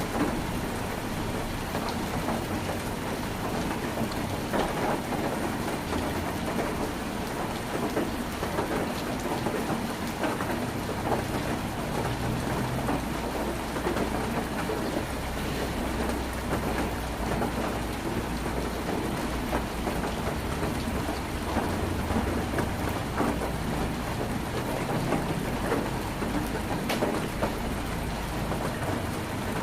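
Heavy rain falling steadily on a tin roof, heard from inside the tin house, a dense even patter with sharper individual drops and a low rumble underneath.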